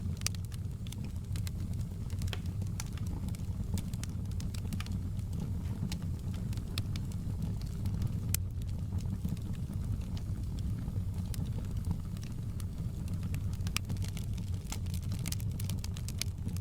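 Fireplace crackling: irregular sharp pops and crackles over a steady low rumble.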